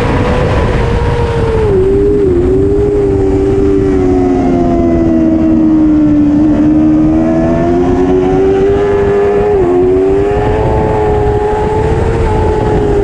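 Superbike engine running hard at high revs. Its pitch sags slowly and climbs again, with two short dips about two seconds in and near ten seconds in, over a heavy low rush of noise.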